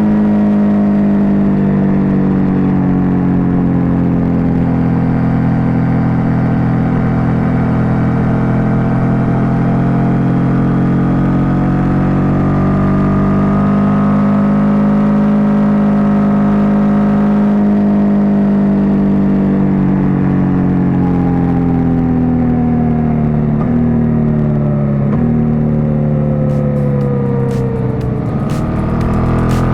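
Suzuki GSX-8S motorcycle's 776 cc parallel-twin engine running loud and unmuffled by narration, its note slowly rising and falling over many seconds, with two brief steps in pitch about three-quarters of the way through and a dip and rise near the end.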